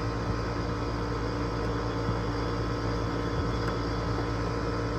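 Steady machine hum of running air-conditioning equipment, with several constant tones over an even background noise.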